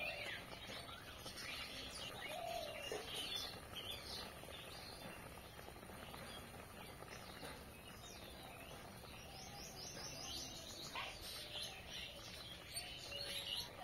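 Small birds chirping, with many short high chirps and quick sweeps one after another.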